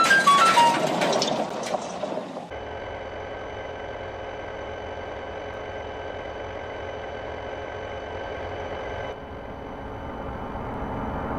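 A loud crash that dies away over about two seconds, with a few short falling notes, then a steady engine drone, like an engine idling.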